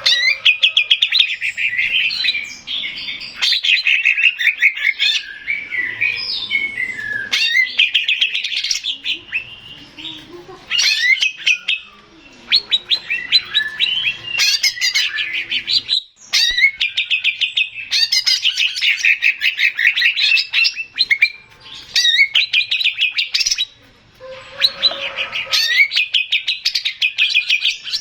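Male green leafbird (cucak ijo) singing a fast, chattering song of rapid chirps and whistles. It comes in phrases of a few seconds with short breaks between them.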